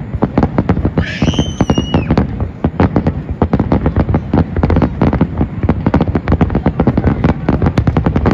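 Starmine fireworks barrage: a rapid, unbroken string of bangs and crackles, many a second, with a brief whistling tone about a second in.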